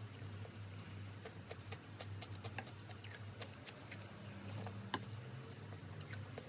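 Irregular light clicks and taps of kitchen utensils, with one sharper click about five seconds in, over a steady low hum.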